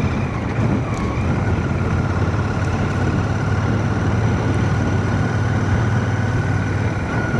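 Royal Enfield Shotgun 650's parallel-twin engine running steadily under way, with wind and road noise, heard from a mic inside a full-face helmet. A thin, steady high whistle comes in about a second in and holds.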